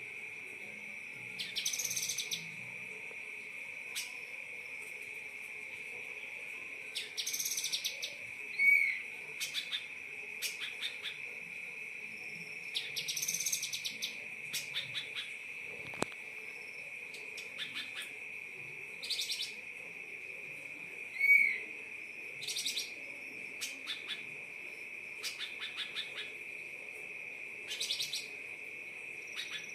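Songbird calling in bursts of fast, rattling chirps every few seconds, with two loud short whistled notes, over a steady high-pitched tone.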